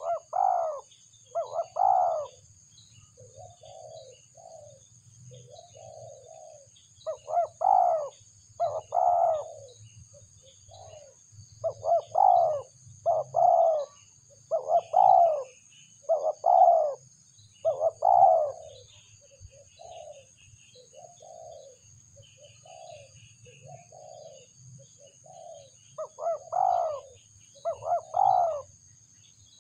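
Doves cooing back and forth in repeated phrases: pairs of loud, low, rounded coos with softer coos between. A steady high thin whine runs behind them.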